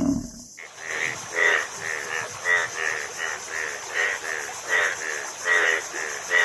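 An animal calling over and over in short, pitched calls, about three or four a second, beginning about half a second in.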